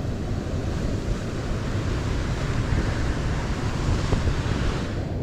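Steady rushing roar of a waterfall, with wind buffeting the microphone.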